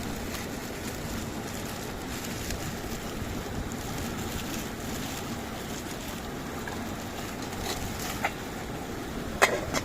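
Waterfall rushing steadily, with two short sharp knocks near the end.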